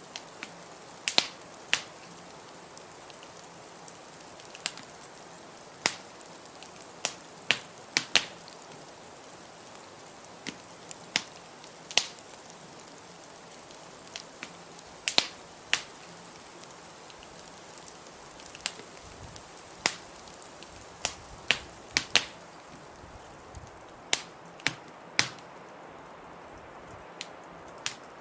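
Wood fire crackling in a fireplace: irregular sharp pops and snaps, some much louder than others, over a steady background hiss of blizzard wind.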